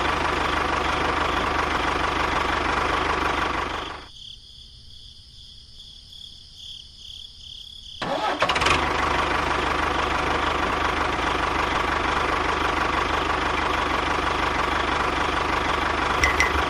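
A motor running steadily. It drops away abruptly about four seconds in and comes back just as suddenly about four seconds later.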